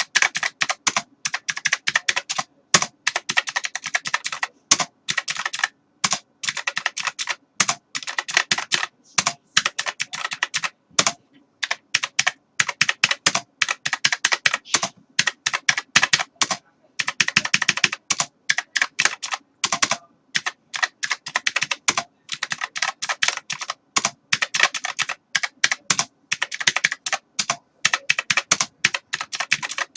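Computer keyboard being typed on continuously: rapid, irregular key clicks, with a few brief pauses.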